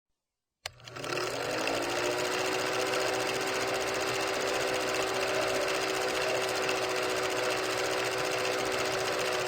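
A click, then a small motor spinning up with a whine that rises in pitch for about a second and then runs steadily at an even pitch.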